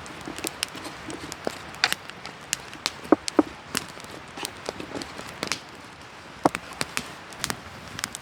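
Campfire wood crackling: irregular sharp pops and snaps, a few louder than the rest, over a soft steady hiss.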